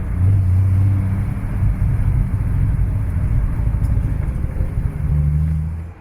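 Triumph TR6's straight-six engine running, with its low note shifting a little as it pulls, then easing off near the end.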